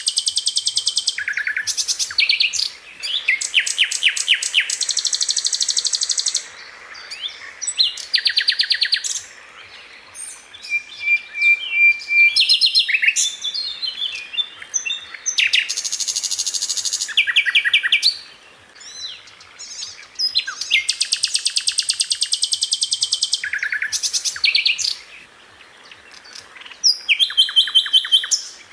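Sikatan londo flycatcher singing in rapid-fire bursts: fast trills of high repeated notes, each burst lasting one to three seconds, separated by short pauses and a few scattered chirps.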